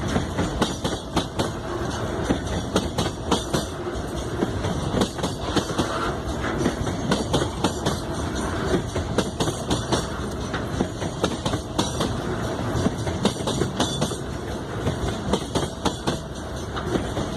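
Loaded freight train rolling past, its wagons' wheels clacking over the rail joints in a dense, continuous run of knocks over a steady rumble.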